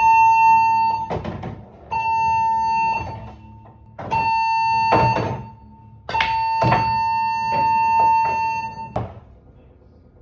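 Cruise ship's general emergency alarm being sounded as a test: a steady, high-pitched horn tone in three blasts of about a second each, then one long blast of about three seconds. These are the last of the short blasts and the closing long blast of the seven-short-one-long emergency signal.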